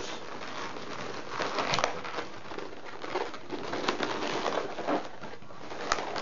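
Inflated latex twisting balloons rubbing and squeaking against each other as they are pressed and fitted into place, with many short, irregular squeaks and creaks.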